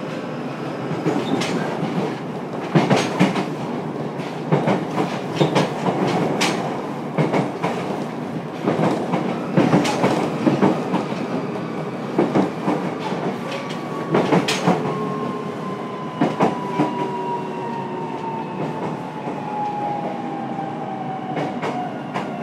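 Running sound inside a JR Kyushu 303 series electric train's motor car: a steady rumble with frequent sharp clacks from the wheels over rail joints. From a little past halfway, the traction motors' whine glides steadily down in pitch as the train brakes for a station stop.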